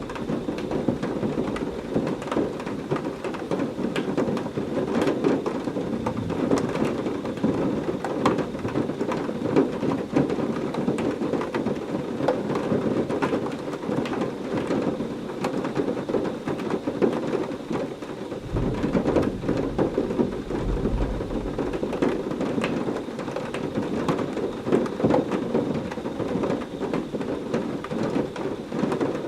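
Heavy rain falling steadily, a dense patter of drops, with a low roll of thunder rumbling in about two-thirds of the way through.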